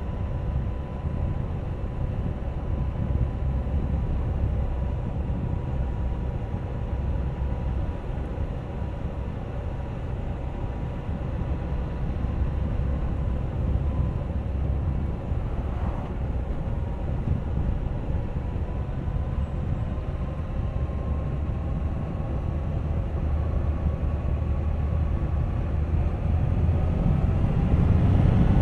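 Suzuki GSX1250FA motorcycle's inline-four engine running at road speed under a steady rush of wind and road noise, its pitch rising gradually over the last several seconds as it gains speed.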